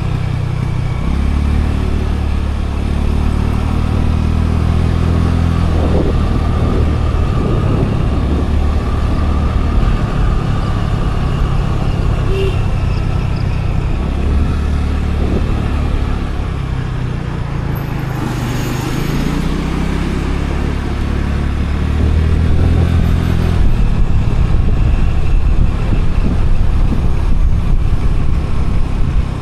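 Scooter riding along the road: its engine running under a constant rush of road and wind noise, with a heavy, uneven low rumble of wind on the microphone.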